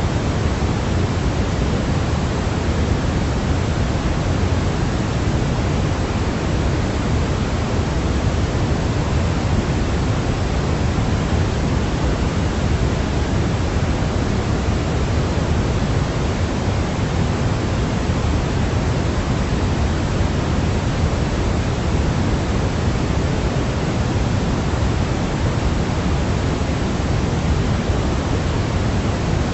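Steady, unchanging synthetic noise, heavier in the low end like pink noise, played as a sleep aid for babies.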